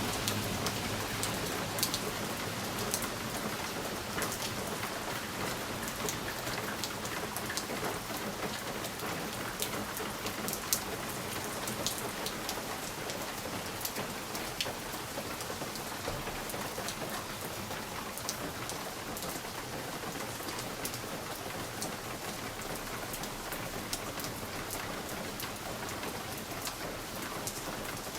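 Steady rain with individual drops ticking sharply here and there, as of rain pattering on a window pane.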